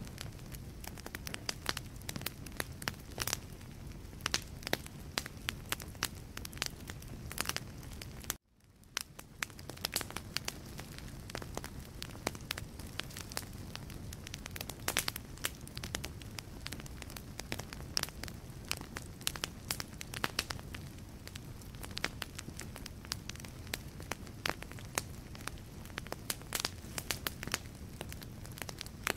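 Wood logs burning in a fireplace: steady irregular crackling and sharp pops over a low, even rumble of flame. About eight seconds in, the sound cuts out for an instant and fades back in.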